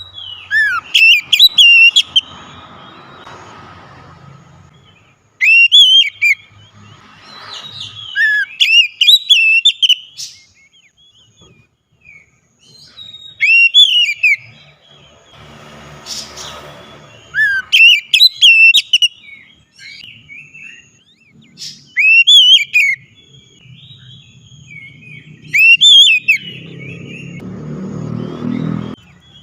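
Oriental magpie-robin singing: loud, rapid whistled phrases, each a second or two long, repeated every few seconds, with a low rumble of background noise between them.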